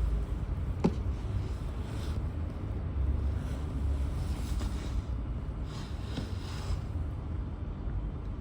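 Wind buffeting the microphone, an uneven low rumble, with a single sharp click about a second in.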